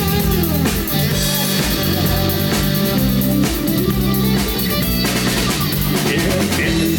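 Rock band playing live: guitar over bass and a drum kit in an instrumental break with no singing.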